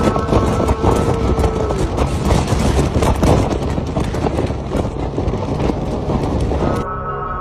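Loud, rough rumble of wind and heavy sea with many crackling hits, over background music. The noise cuts off suddenly near the end, leaving the music.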